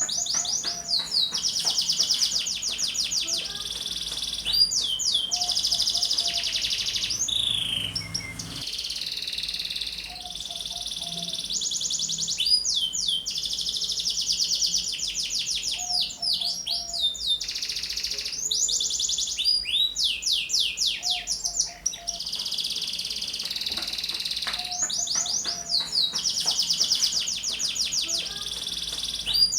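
Domestic canary in full, continuous song: fast, high trills and rapid runs of notes, delivered in phrases a few seconds long with short gaps between them.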